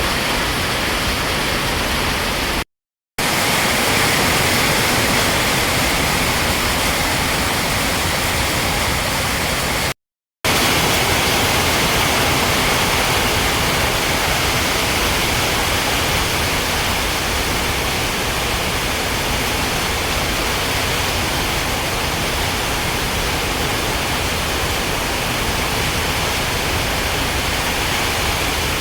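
Heavy rain pouring down in a steady, dense hiss. It cuts out twice for under half a second, about 3 seconds and 10 seconds in.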